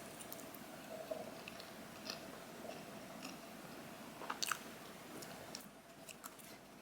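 Faint close-up chewing of a mouthful of soft chocolate cream cake, with a few light clicks.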